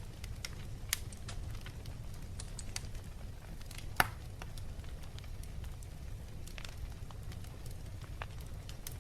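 Wood fire crackling in a fireplace, with irregular small snaps and one loud pop about four seconds in, over a low steady rumble.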